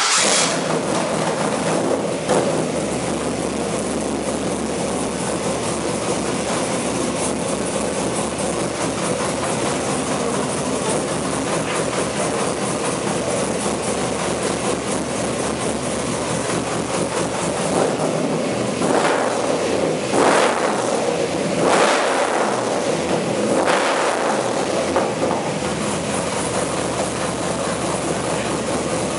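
GM LS3 V8 swapped into a BMW E21, running loud and steady on its first start-up after the conversion, with four short throttle blips, each rising and falling in pitch, about two-thirds of the way through.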